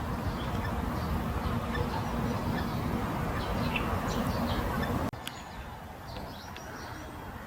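Birds giving short, high chirps here and there over a steady low background rumble; about five seconds in the background drops abruptly and the chirps carry on over a quieter backdrop.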